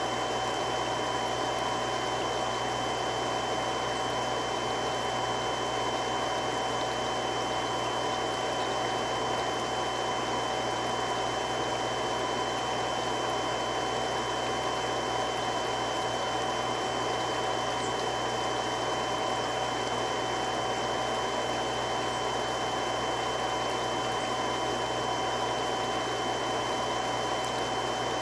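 Three-stage irrigation water pump running steadily: an even rushing noise with a few constant whining tones over it.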